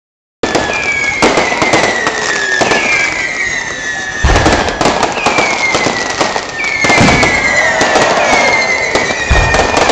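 Fireworks display: a dense crackle of small pops with repeated whistles falling in pitch, and deep booms about four seconds in, about seven seconds in and near the end. The sound starts after a brief dropout.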